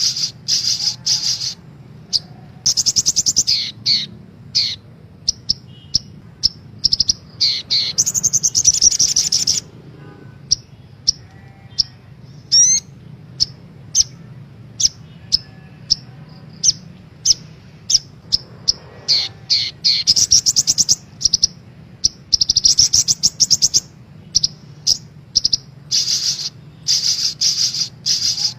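Crimson sunbird (sogok ontong) calling: rapid, high-pitched chattering trills in bursts of about a second, with single sharp chips between them, repeated over and over. A faint steady low hum lies underneath.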